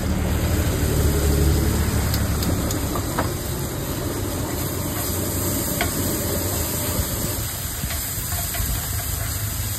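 Food frying on a street stall's hot pan: a steady sizzling hiss, with a few light clicks of utensils. Low traffic rumble underneath, heaviest in the first couple of seconds.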